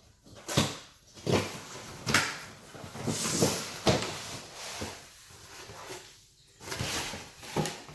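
Cardboard packaging being opened and handled: a series of knocks and scrapes, with a rustle of cardboard or paper about three seconds in.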